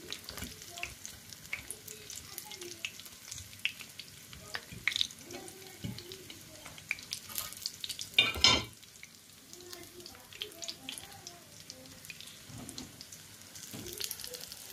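Breadcrumb-coated Korean corn dogs shallow-frying in hot oil, sizzling and crackling with many small pops. A short, loud clatter comes a little past the middle.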